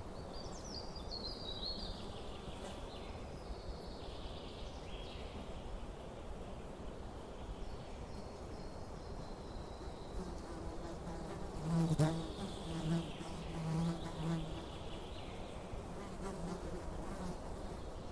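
A flying insect such as a bee or fly buzzing close by in the second half, its low hum swelling and fading as it moves. Earlier there are high, descending chirping calls.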